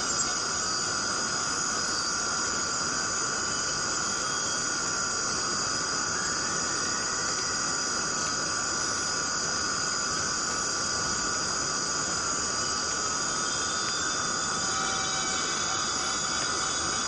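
Chorus of forest cicadas: a steady, unbroken buzzing drone with a high, shrill edge.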